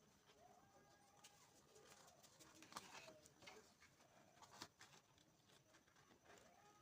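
Near silence with a faint bird calling in long drawn-out notes, twice, and a few soft clicks.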